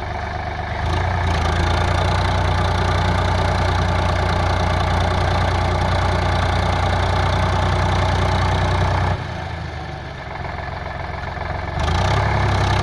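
Tractor engine running steadily, its low hum strongest in the bass; about nine seconds in it drops quieter for two or three seconds, then picks back up to its earlier level.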